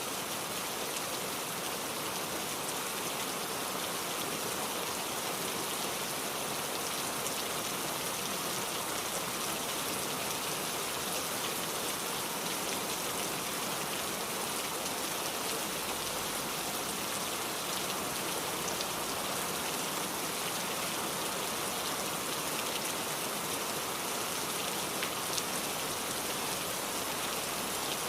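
Steady rain falling on a surface, an even patter with fine drop ticks.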